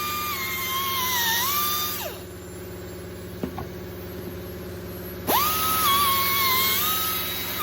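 Grinder whining at high speed while its disc works metal, making a grinder-tattoo swirl finish. The pitch dips as it is pressed into the metal. It is switched off about 2 s in and spins down, then starts again a few seconds later, spinning straight up and dipping again under load.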